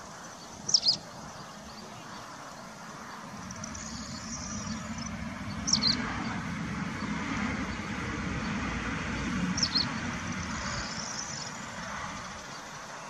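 A bird gives short high chirps about every four to five seconds, with faint twittering between them. Under it a low traffic rumble swells through the middle and fades away.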